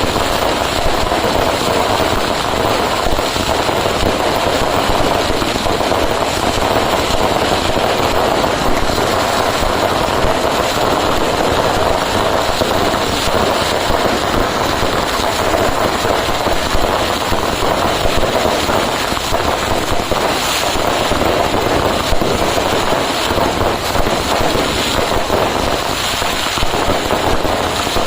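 Dense, unbroken barrage of fireworks and firecrackers going off, the bangs and crackles so rapid they merge into one steady, loud noise with no pauses.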